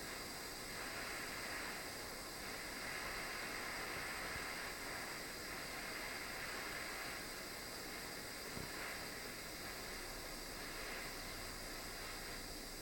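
Soldering torch flame hissing steadily while it heats the solder seam of a brass ring.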